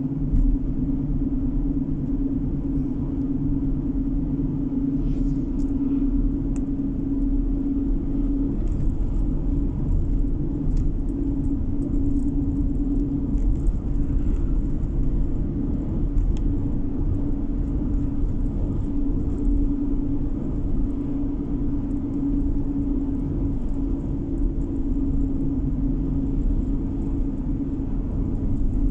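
A car driving along steadily, heard from inside the cabin: a constant low rumble of road and engine noise with a steady droning hum.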